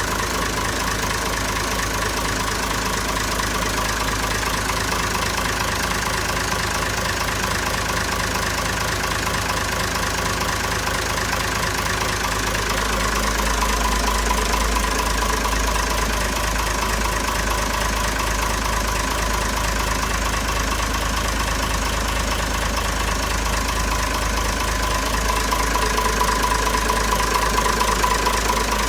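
Engine running steadily. About twelve seconds in its low note shifts and it gets slightly louder.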